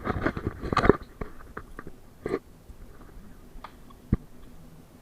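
Clattering and rattling inside a PAZ-32054 bus on the move: a dense burst of crunchy clicks at first, then scattered single clicks and a sharp knock about four seconds in.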